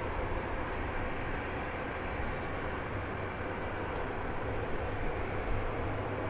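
Steady jet engine noise from airliners at the airport, an even rumble without distinct events.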